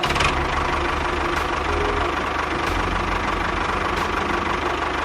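A small motor running steadily, with a fast low rattle and a faint steady whine.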